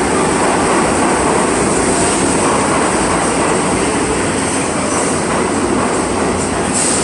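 Subway train approaching a station: a loud, steady rumble of wheels on the track, with a hiss high over it.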